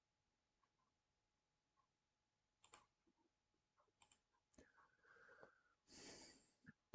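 Near silence with a few faint computer clicks, single taps spread through the middle, and a faint soft hiss near the end.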